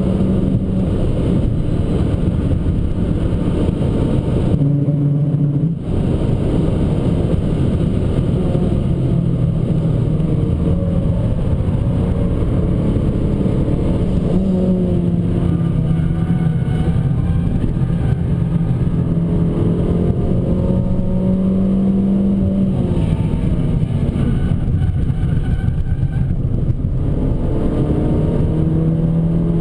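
Abarth 595 Competizione's turbocharged 1.4-litre four-cylinder engine pulling hard at speed, its note stepping up and down through gear changes, with a brief lift about five seconds in and revs climbing near the end.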